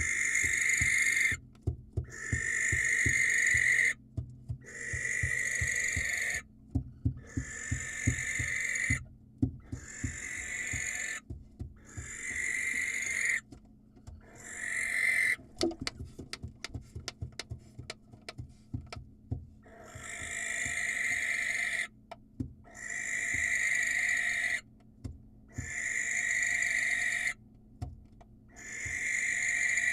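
Barn owl giving long, hissing screech calls over and over, each lasting one to two seconds with a short pause between. Midway through, the screeching stops for about four seconds and a run of rapid clicks and taps takes its place.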